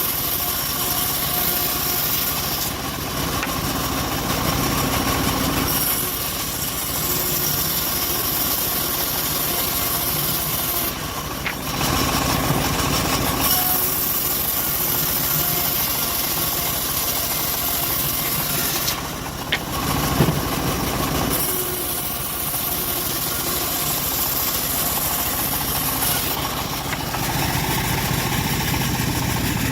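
Engine-driven homemade bandsaw mill running steadily while sawing an acacia log. The steady engine note carries a high hiss that shifts every few seconds, with a sharp knock about 20 seconds in.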